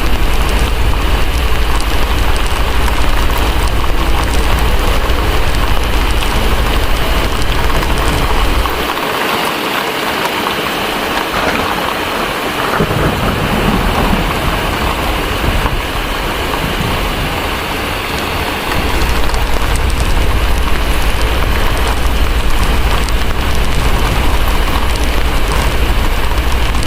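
Steady heavy rain with a deep rolling rumble of thunder underneath. The rumble falls away about a third of the way in, a roll of thunder swells around halfway, and the deep rumble comes back strongly about two-thirds in.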